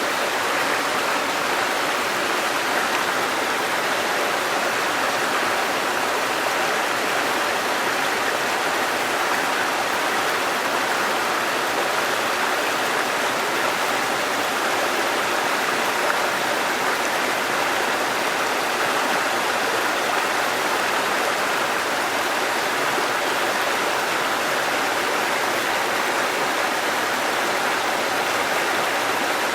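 Waterfall: a steady, unbroken rush of falling and running water.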